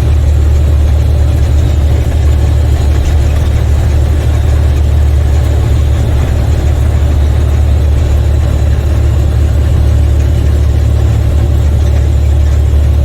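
Semi truck's diesel engine running steadily under way, heard from inside the cab as a loud, even low rumble mixed with road and wind noise.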